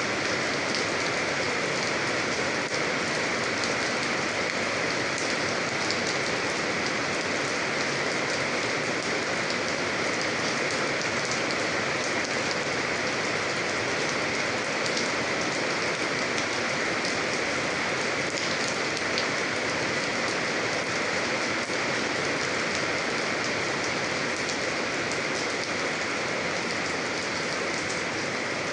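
Steady rain falling and pattering on a surface, with many small drop ticks and no change in intensity.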